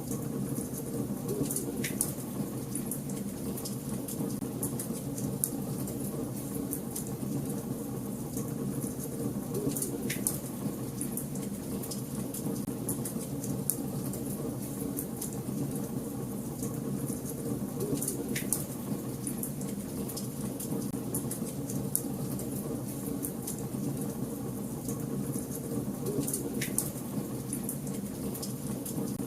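Wood fire burning in a fireplace: flames making a steady low noise, with constant fine crackling and a few louder pops.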